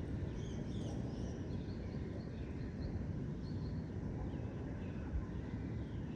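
Birds chirping in short high calls, busiest in the first couple of seconds, over a steady low rumble of distant city noise.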